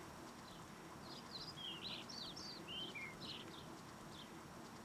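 Small songbird chirping: a quick run of short high notes, then a few scattered calls, over faint steady outdoor background noise.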